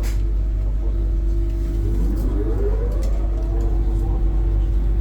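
Ivolga electric train running, with a steady low rumble and a constant hum. From about two seconds in, a traction-motor whine rises steadily in pitch as the train accelerates.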